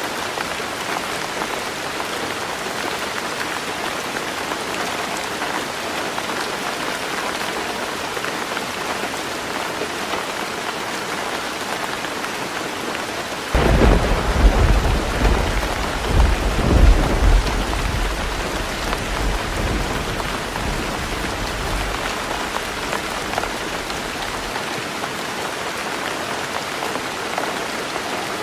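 Heavy rain falling steadily on a roof. About halfway through, thunder breaks in suddenly with a deep rumble that stays loud for a few seconds, then fades over several more.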